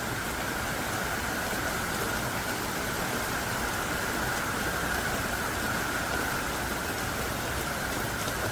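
Heavy downpour of thick, pounding rain falling steadily: a dense, even hiss of rain without let-up.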